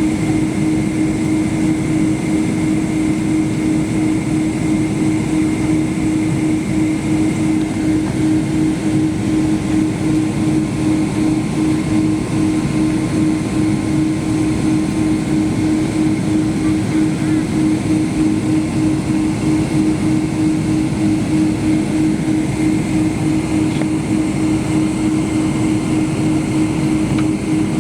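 Steady engine and airflow noise heard inside the cabin of a Boeing 777-200ER airliner, a continuous drone with a fainter high whine above it.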